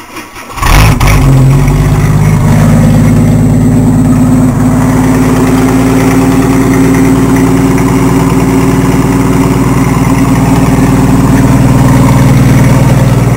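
1985 Jeep Grand Wagoneer's AMC 360 V8 catching about a second in and then idling steadily and loud, running with its old muffler cut out of the exhaust.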